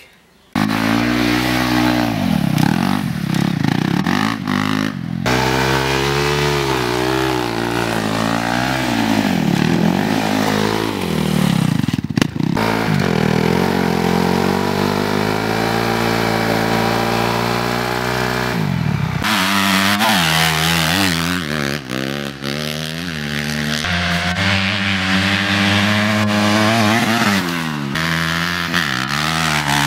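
Motorcycle engine revved hard over and over, its pitch rising and falling repeatedly. It starts suddenly about half a second in and drops out briefly a few times.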